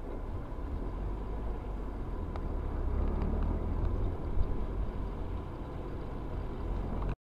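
Steady low rumble of a car driving, its engine and road noise heard from inside the vehicle, swelling toward the middle with a single brief knock about four seconds in. It cuts off abruptly near the end.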